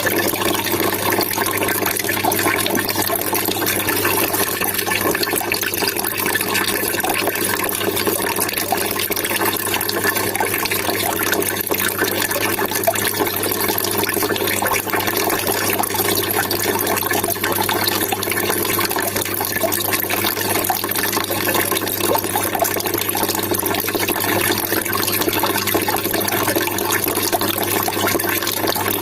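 Water trickling and splashing steadily, without a break.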